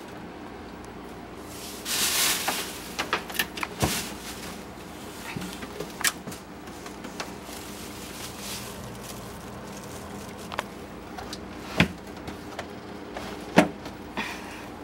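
Scattered knocks and clicks of household objects being moved, like a cupboard or refrigerator door being handled, with a brief rustle about two seconds in and sharper knocks about four, twelve and thirteen and a half seconds in.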